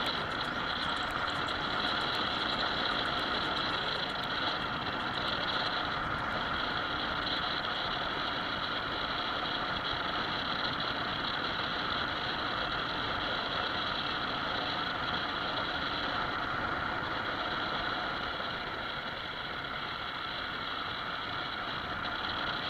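Motorcycle running steadily while riding on the road: a constant engine and road noise that eases slightly near the end.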